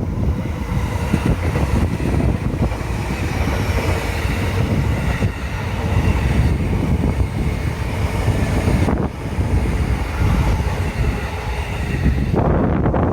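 A train on the JR Ome Line passing close by, with steady wheel-on-rail running noise that shifts about nine seconds in. Wind buffets the microphone near the end.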